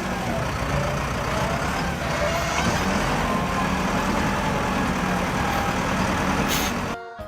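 A heavy vehicle's engine running steadily with a dense rumble, cutting off abruptly near the end.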